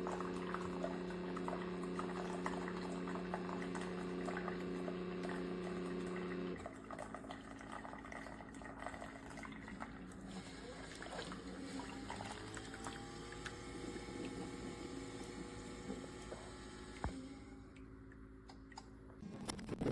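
Keurig K-Classic single-serve coffee maker brewing: its pump hums steadily as coffee pours into the cup. The hum stops about six seconds in, leaving softer trickling and dripping as the brew finishes.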